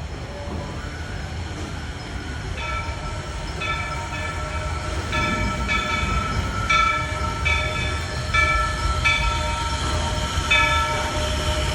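Walt Disney World Railroad steam train rolling along with a steady low rumble. From about two and a half seconds in, a bell rings over and over, about once a second and often in pairs of strokes, each stroke ringing on.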